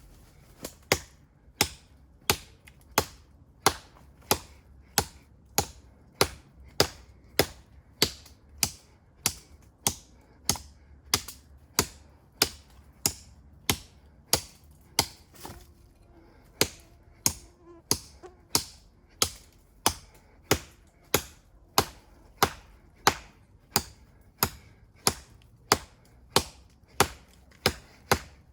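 Convex-ground knife with an 11.5 cm blade chopping into a standing tree trunk: sharp, evenly paced blade strikes on wood, about three every two seconds, with a brief pause about midway.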